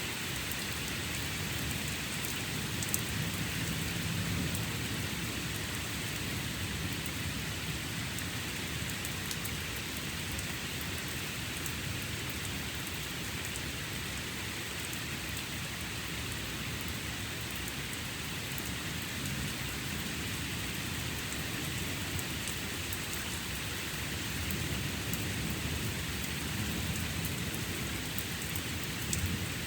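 Steady rain falling and pattering on surfaces during a thunderstorm, with low thunder rumbling in and out, swelling again near the end.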